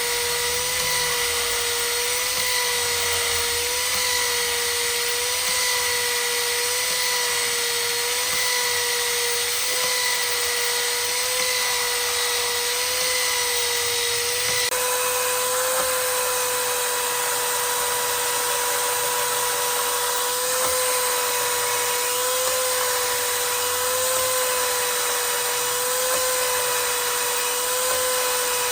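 A power tool's electric motor running steadily: a constant high whine with a slight regular wobble in pitch over a hiss. The background changes abruptly about halfway through.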